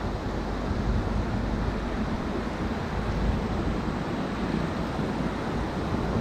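Steady rush of Ocoee River whitewater running through a rapid, with wind rumbling on the microphone.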